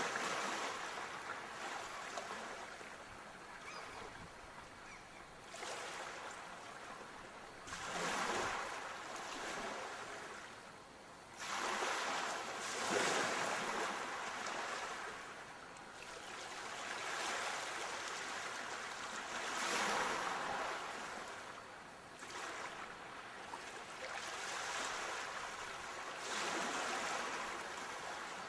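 Sea waves washing onto a shore. Each surge of hiss swells and then falls away, about seven times, every three to five seconds.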